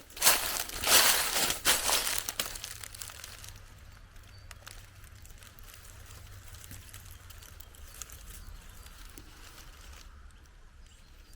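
Footsteps crunching on a dry forest path, about a step or two a second, for the first two to three seconds, then they stop. What follows is a quiet, steady background with a low hum.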